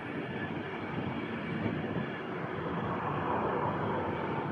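Avanti West Coast passenger train running past the platform: a steady rumble and hiss of wheels on rails, swelling slightly about three seconds in.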